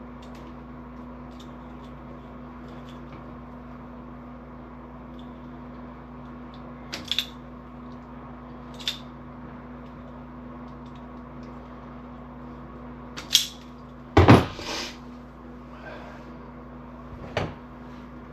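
Scattered clicks and knocks of small parts and tools being handled during wiring work, about five of them, the loudest a little past halfway, over a steady low hum.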